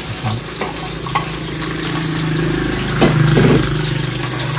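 Sliced eggplant frying in a pot of onion and garlic, with a few clinks of a utensil scraping it off a plate in the first second or so. A steady low hum runs underneath and swells briefly about three seconds in.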